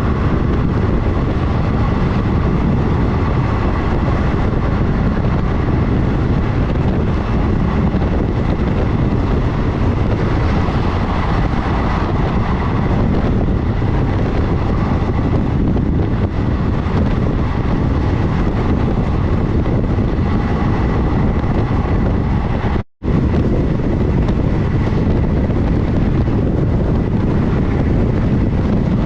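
Train running at speed, heard from on board: a loud, steady rumble of wheels on rail mixed with wind noise. The sound cuts out for a moment about three-quarters of the way through, then carries on unchanged.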